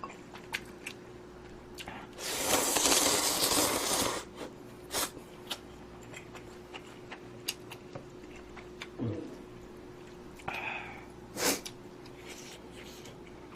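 A person eating instant budae-jjigae noodles: a long, loud slurp about two seconds in, then small mouth clicks of chewing and a shorter slurp near the end.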